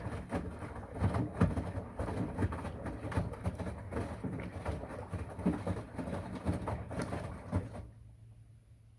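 Washing machine running, its drum tumbling with irregular knocks and clunks over a steady low hum. The sound cuts off abruptly about eight seconds in, leaving only a faint hum.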